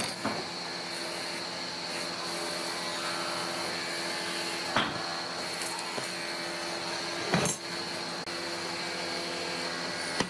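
An electric power tool motor running steadily on wood, with a few sharp knocks about a third, halfway and three quarters of the way through.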